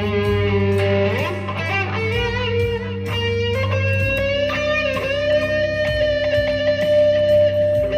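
Electric guitar played through a Blackstar ID:15 TVP amp with a Dunlop Cry Baby wah pedal: held single notes, a slide up about a second and a half in, then one long sustained note with a slight bend.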